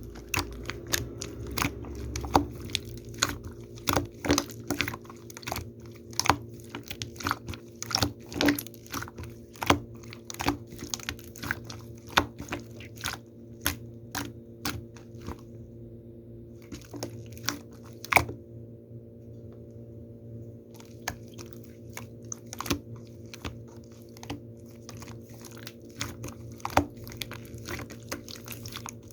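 Slime being worked by hand: irregular sharp crunchy clicks and pops as it is pressed and stretched, pausing for a couple of seconds about two-thirds of the way through. A steady low hum runs underneath.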